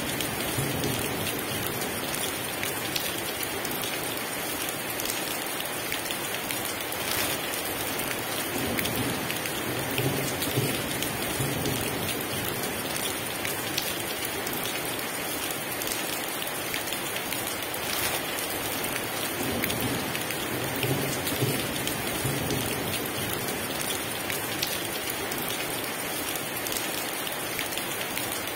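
Heavy rain falling steadily, a dense even hiss, with low rumbles of distant thunder now and then.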